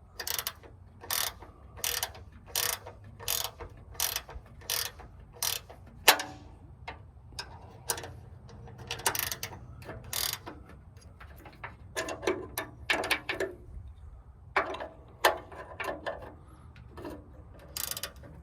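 Ratchet wrench clicking in repeated strokes, roughly one every two-thirds of a second, as a nut is tightened down; a sharper knock about six seconds in.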